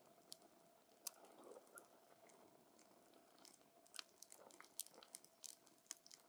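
Wood campfire crackling faintly, with irregular sharp pops from the burning wood, more frequent in the second half.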